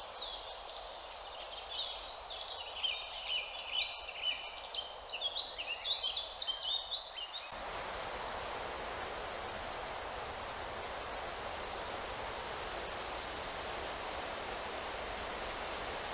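A songbird sings a quick run of high chirping notes for the first several seconds. About seven and a half seconds in, the sound cuts to a steady rustle of leaves in the treetops.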